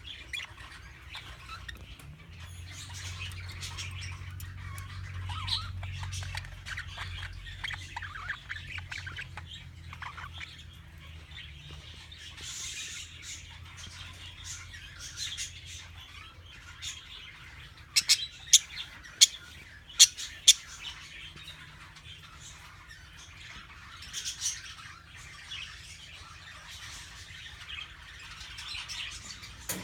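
A cage of budgerigars chattering and warbling continuously, with a quick cluster of five or six loud, sharp sounds about two-thirds of the way through.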